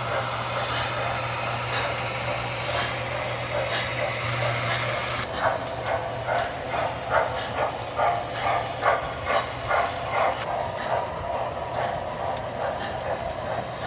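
MTH model trains running on the track: a steady low hum with running rumble, a brief hiss about four seconds in, then a run of rhythmic clicking about two times a second for several seconds.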